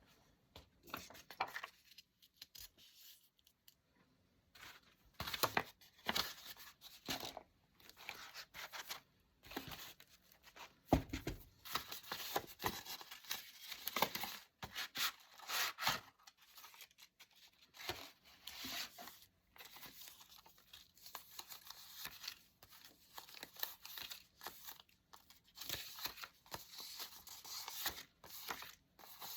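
Paper being torn and handled close to the microphone, in irregular short rips and rustles with brief pauses between them.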